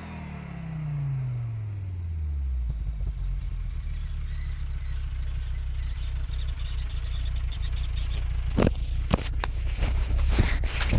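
Fiat Coupe 20v Turbo's turbocharged inline five-cylinder engine, breathing through a Ragazzon exhaust, dropping back from a rev to idle over the first couple of seconds, then idling steadily with a deep exhaust note. A few sharp clicks come near the end.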